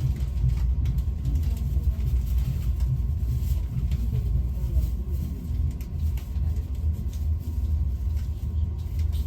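Steady low rumble of a passenger train heard from inside the carriage as it runs along the track, with faint ticks and wavering tones above the rumble.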